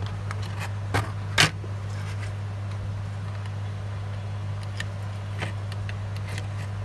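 Steady low electrical hum throughout, with two sharp clicks about a second in and a few fainter ticks later on.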